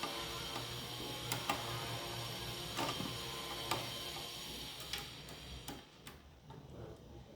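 Scattered light clicks and taps of computer hardware being handled and fitted during desktop PC assembly, over a steady hum that falls away about five seconds in.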